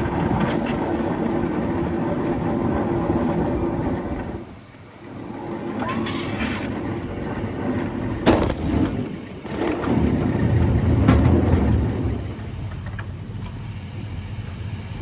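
Pallets being moved onto a truck: a rolling, rattling rumble with sharp knocks about eight and nine and a half seconds in, and a heavier rumble shortly after.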